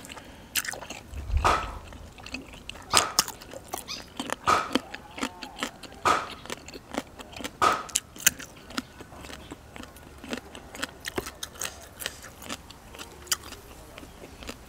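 Close-miked eating sounds: chewing stuffed squid, with sharp crunching clicks about every second or so, and a crunchy bite into a raw vegetable partway through.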